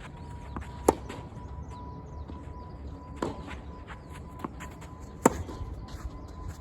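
Tennis rally: the ball struck by rackets three times, about two seconds apart, the first and last hits louder than the middle one, with fainter knocks of the ball bouncing on the court between them.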